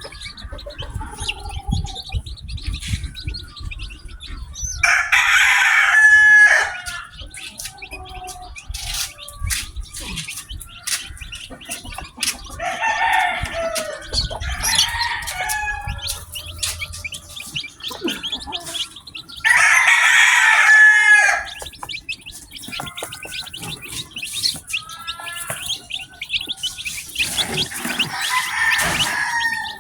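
Newly hatched chicks peeping steadily, with a rooster crowing loudly twice, about five seconds in and again about twenty seconds in, and other adult chicken calls in between.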